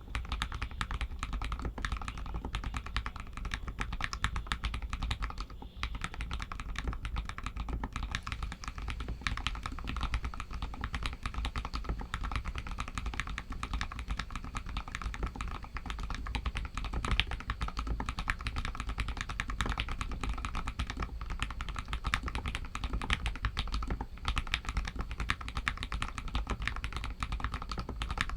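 Continuous fast typing on a Royal Kludge RK61 mechanical keyboard with Outemu Red linear switches: a dense, unbroken run of key clacks.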